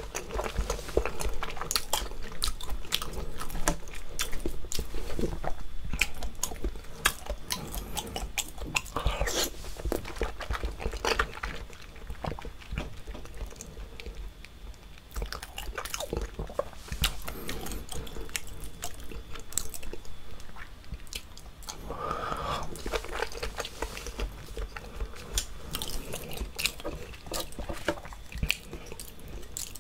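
Close-miked chewing of raw seafood, mostly salmon sashimi dipped in sauce: many short, sharp, wet smacks and clicks at an irregular pace.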